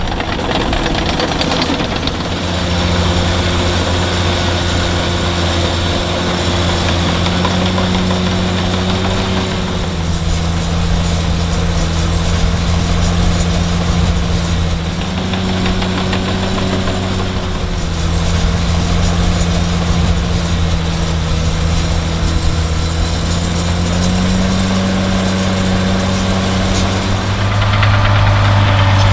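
Agricultural machine's diesel engine running steadily at working speed, its pitch dipping and rising slightly every few seconds; it gets louder near the end.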